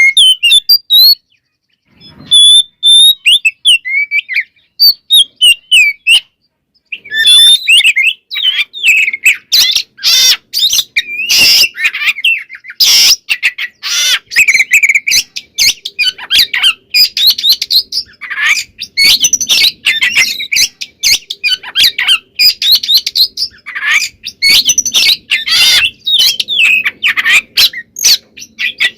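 Oriental magpie-robin (kacer) singing a loud, varied song. It starts with a few short phrases separated by pauses. From about seven seconds in, a fast, unbroken run of whistles, trills and sharp notes takes over, the busy, mimicry-filled singing that kacer keepers call "gacor full isian".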